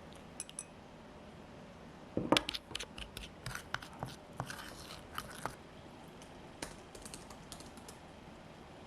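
Small clicks and knocks of objects being handled, loudest in a cluster about two seconds in, with scattered lighter taps for a few seconds after.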